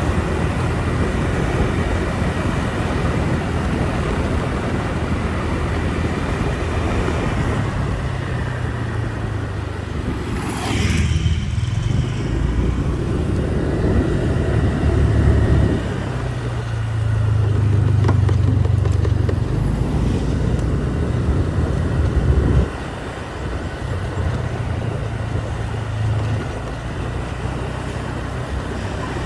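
Motorbike riding on the road: its engine runs steadily under road and wind noise, its note shifting up and down with speed. About eleven seconds in a short falling whoosh sweeps through, and the engine eases off to a lower level near the end.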